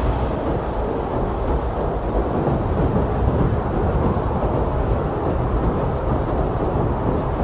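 Strong blizzard wind blowing steadily: a deep, even rush of noise, heavy in the low end, without gusts or breaks.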